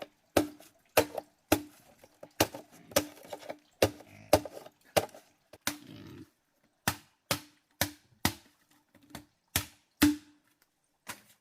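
Repeated chopping, a blade striking wood about twice a second, each strike with a short ring. There is a brief break a little past halfway.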